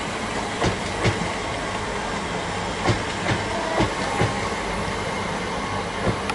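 GWR passenger train rolling past over a steady rumble, its wheels clicking over rail joints in close pairs as each bogie crosses.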